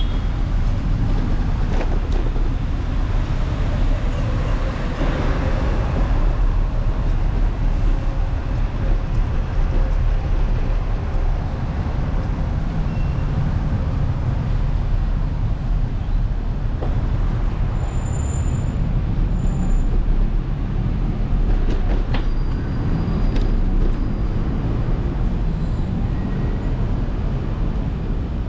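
Wind buffeting the microphone of a camera on a moving bicycle, a steady low rumble, mixed with road and traffic noise, with a few brief clicks near the end.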